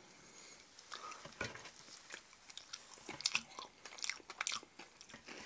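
Close-up chewing of a mouthful of pancake: irregular wet smacks and small clicks of the mouth, with now and then a light tap of cutlery.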